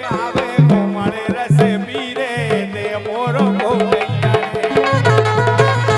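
Bundeli folk music instrumental passage: a melody line that bends in pitch over a stepping bass line, with tabla-like hand-drum strokes keeping a steady beat.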